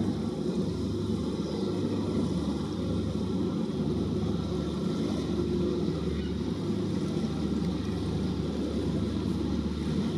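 Steady low rumble of a vessel's engine running on the water, mixed with wind buffeting the microphone.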